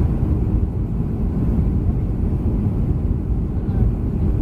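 Steady low rumble of a Boeing 737-300 airliner heard inside the passenger cabin, the even roar of engines and airflow.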